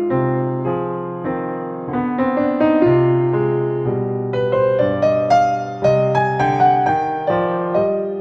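Soft, slow piano music: single melody notes over sustained chords, each note decaying after it is struck.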